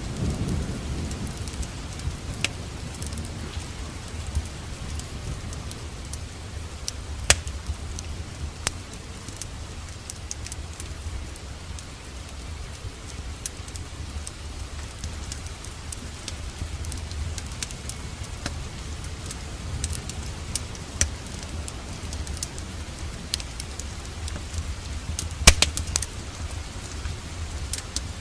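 Steady rain over a low rumble, with a wood fire crackling and giving sharp pops now and then, the loudest about 7 seconds and 25 seconds in.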